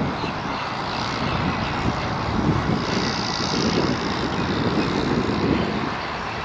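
Airplane engine noise from an aircraft on or near the runway: a steady low rumble with a higher hiss that swells about three seconds in.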